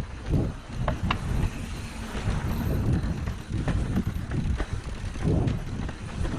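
Wind buffeting the microphone while a mountain bike rides over rough trail, with the bike rattling and knocking now and then.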